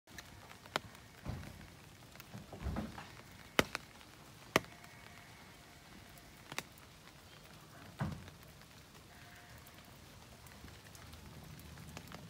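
Light rain: a soft steady patter with scattered sharp drip ticks, the loudest about three and a half and four and a half seconds in, and a few dull low thumps.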